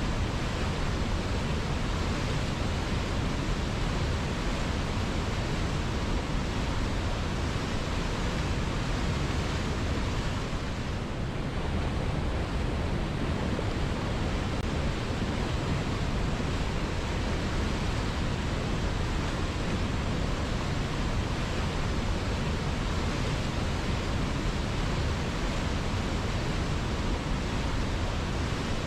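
River water flowing, a steady, even rushing with a brief softening about eleven seconds in.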